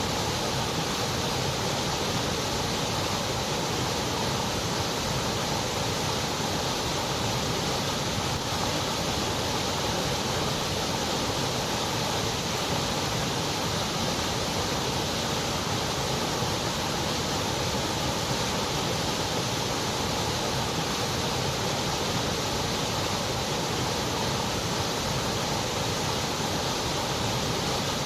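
Steady white noise: an even, unchanging hiss spread across the low to high pitches, with the very highest pitches cut off.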